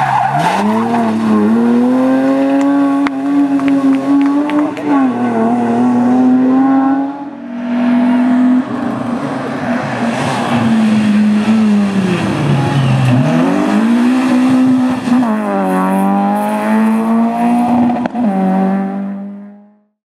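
Rally car engine at hard throttle, its pitch dropping and climbing again and again through gear changes and corners. About seven seconds in there is a sudden cut to another stretch of driving, and the sound fades out near the end.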